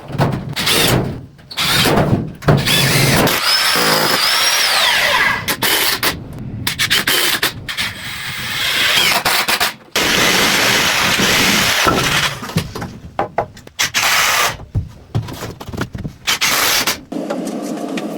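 Carpentry tool noise: power tools running in short bursts on wood, starting and stopping every second or two, with a high whine in places.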